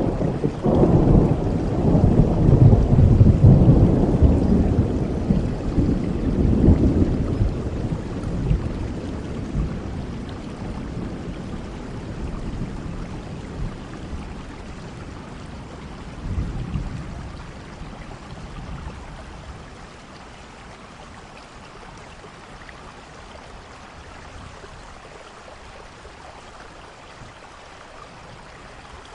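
Thunderstorm: a long, loud roll of thunder in the first few seconds that slowly fades, a smaller roll about halfway through, and steady rain throughout.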